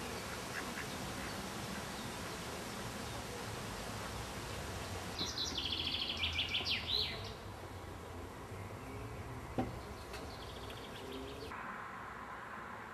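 Outdoor ambience with a steady background hiss and hum, broken about five seconds in by a songbird singing a short burst of rapid high notes. A single sharp click comes a few seconds later.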